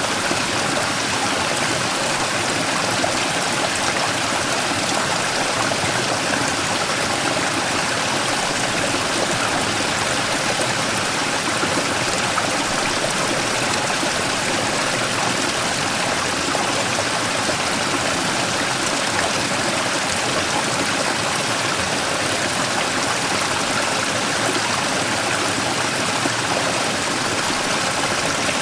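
Mountain stream rushing steadily over and around a large boulder: a continuous, even rush of water with no change throughout.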